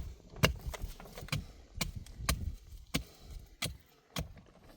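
Repeated chopping strikes, about seven sharp blows at an uneven pace of roughly one every half second to a second, each with a dull low thud.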